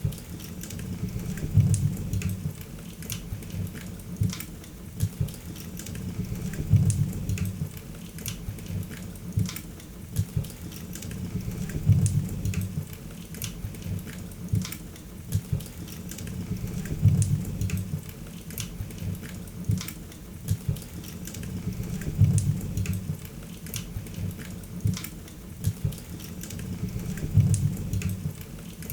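Wood fire in a fireplace crackling, with many sharp pops and snaps over a low rumble of flames that swells about every five seconds.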